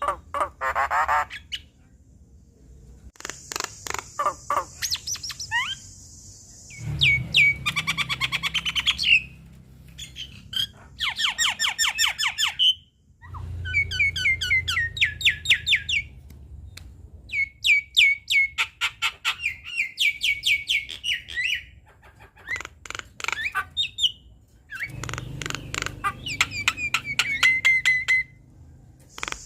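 Javan myna singing: a varied song of rapid chattering note trains, harsh squawks and short rising whistles, delivered in phrases a few seconds long with brief pauses between them.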